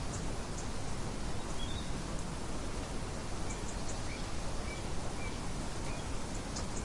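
Steady rain hiss with a few short, high bird chirps scattered through it, once about a quarter of the way in and several more in the second half.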